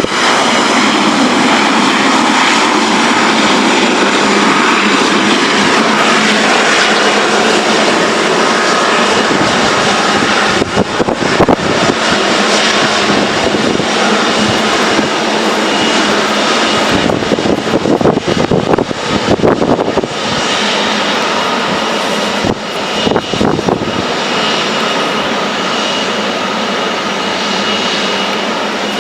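Boeing 737-800's CFM56 turbofan engines running loud and steady, a rushing jet noise with a faint whine held through it. The sound turns uneven and fluttering for a few stretches around the middle.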